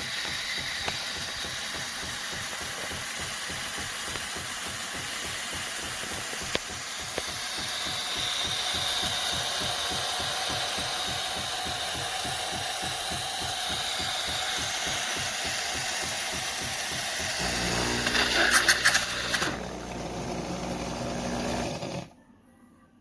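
Philips 4300 Series fully automatic espresso machine running, a steady mechanical noise with a fast low pulsing. About 17 seconds in it changes to a deeper hum with a few louder rattles, then cuts off suddenly about 22 seconds in.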